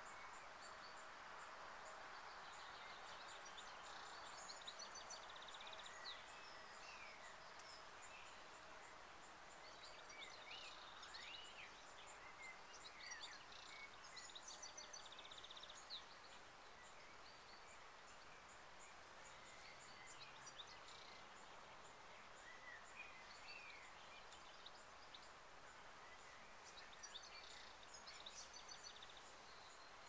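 Faint outdoor ambience of songbirds chirping and singing in scattered short calls over a soft steady hiss, with a faint steady hum that fades out about eight seconds in.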